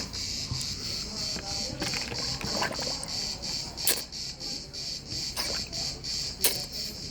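Steady high-pitched chirping pulsing about four times a second, like insects such as crickets, with two sharp knocks about four and six and a half seconds in.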